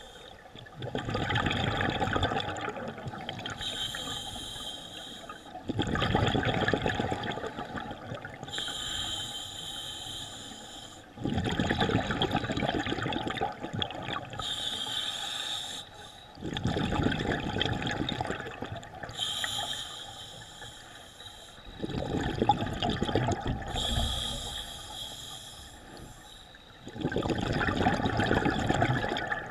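Scuba diver breathing through a regulator underwater, about five breaths: a thin hiss on each inhale, then a louder rush of exhaust bubbles on each exhale.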